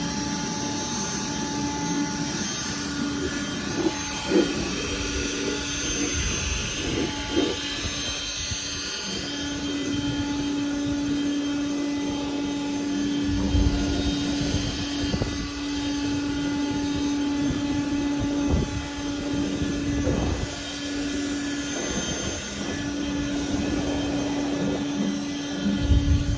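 A whining electric motor runs steadily over a rushing hiss, as from car-washing power equipment. The motor cuts out briefly several times and picks up again.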